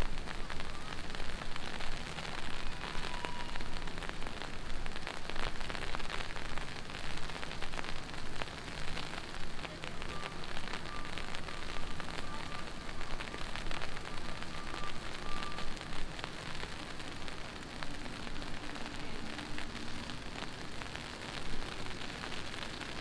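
Heavy rain falling, a dense, steady patter of drops striking hard surfaces. A faint run of repeated high beeps sounds for several seconds about ten seconds in.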